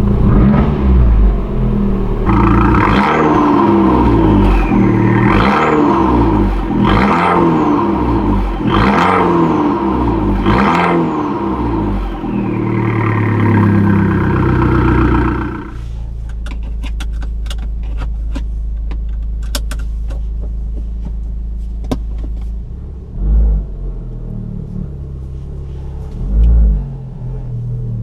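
Abarth 595 Competizione's 1.4-litre turbocharged four-cylinder engine and exhaust, revved in short sharp blips about every two seconds from idle. After about 15 seconds it drops back to idle with a scatter of sharp pops from the exhaust, then two brief blips near the end.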